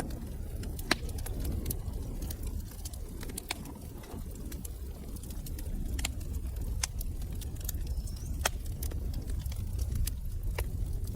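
Wood fire burning in a fireplace: scattered sharp crackles and pops over a steady low roar of flames.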